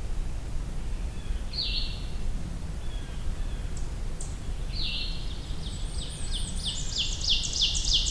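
Blackburnian warbler singing an unusual variant of its song: one short, high note, then from about halfway in a quick run of about nine repeated notes with very high, thin notes above them, ending in a twitter.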